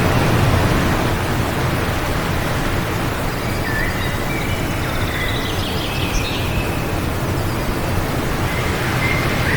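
Steady wind noise, with a few faint bird chirps in the middle and near the end.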